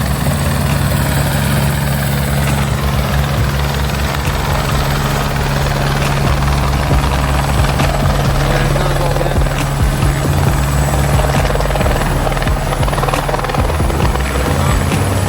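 Helicopter running close by: a loud, steady engine and rotor drone with a thin high whine over it.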